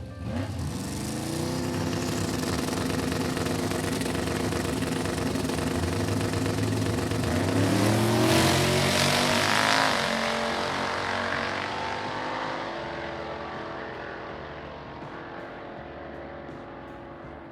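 A 9-second Chevy C10 drag truck's engine launches hard and revs up through a quarter-mile pass. It is loudest as it comes by, about halfway through, then fades away down the track.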